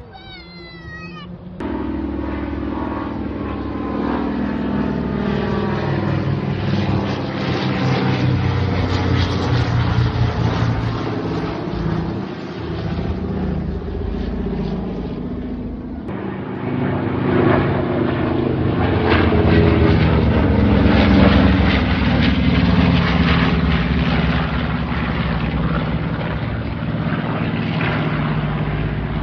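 Piston-engined propeller aircraft running loudly, its note shifting as it moves. The sound cuts abruptly to another stretch of engine noise about 16 seconds in. A brief run of high falling squeaks comes just before the engine sound begins.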